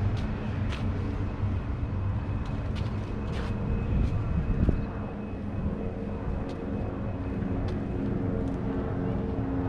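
Outdoor background rumble with scattered small clicks and a thump about four and a half seconds in. From about halfway, music with steady held notes fades in over it.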